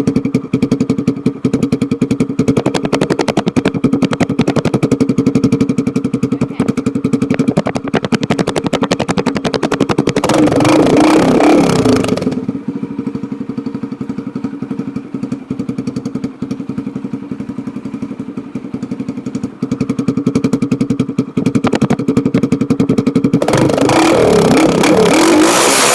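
Yamaha TT-R125L dirt bike's single-cylinder four-stroke engine idling with a fast, even putter, revved up twice: once about ten seconds in, held for about two seconds before dropping back to idle, and again near the end, held high.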